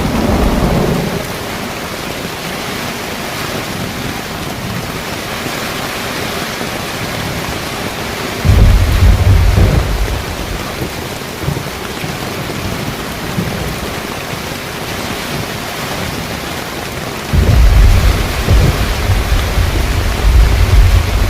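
Heavy rain falling steadily on a car rooftop tent. Twice a sudden deep rumble swells up: the first, about eight seconds in, fades within a couple of seconds; the second, near the end, carries on.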